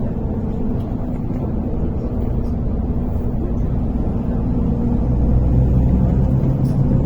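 MAZ-103 city bus driving, heard from inside the passenger cabin: a steady low engine and road rumble with a faint whine, growing a little louder about five seconds in.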